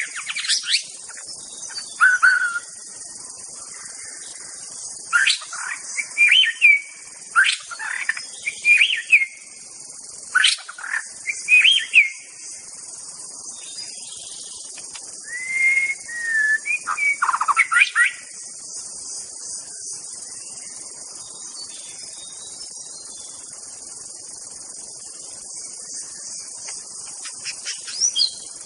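White-rumped shama (Medan murai batu) singing in short, varied bursts of loud whistles and sharp sweeping notes, which mostly stop after about eighteen seconds. A steady high-pitched hiss, like insects, runs underneath throughout.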